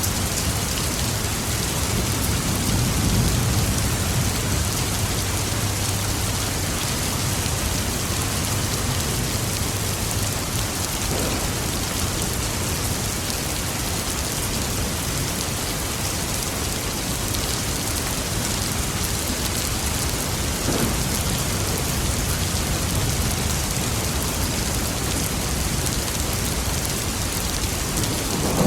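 Steady rain falling in a thunderstorm. A low rumble of thunder swells and fades in the first ten seconds or so.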